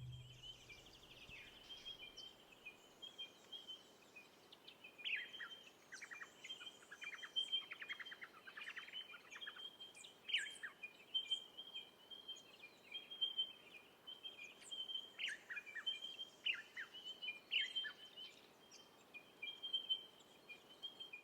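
Birds chirping faintly over a light outdoor hiss, with a string of short repeated chirps and quick falling calls, busiest in the middle.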